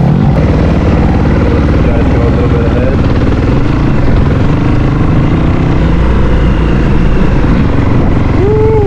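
Dirt bike engine running steadily as the bike is ridden.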